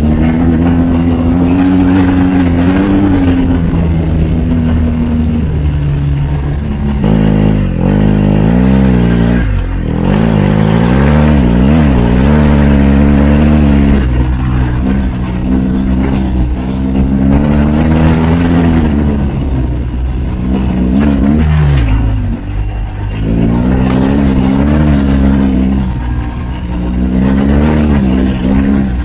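BMW R1250GS HP's boxer-twin engine breathing through an Akrapovič slip-on muffler with its baffles in, revving up and down in a series of throttle blips with a longer held rise in the middle.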